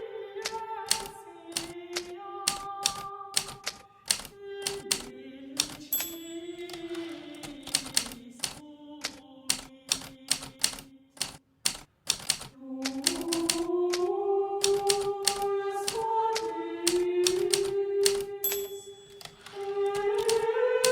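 Hermes Baby portable typewriter keys striking in quick irregular runs, with background music playing a slow melody of sustained notes. The music drops away for a moment about halfway through.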